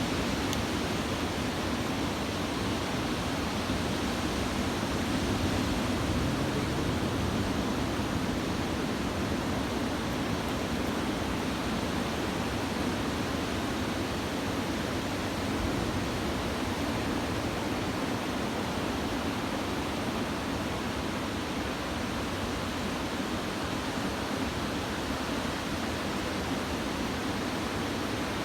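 Ocean surf from a typhoon swell breaking on the beach, a steady rush of wave noise that swells slightly a few seconds in.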